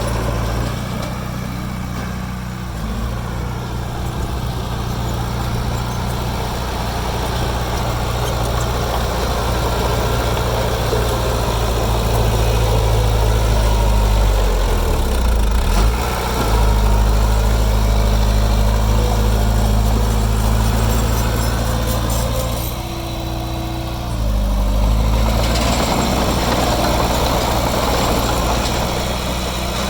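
Heavy diesel engine of earthmoving machinery running steadily. Its note dips and recovers briefly about halfway through, and again about three-quarters of the way through, as the load on it changes.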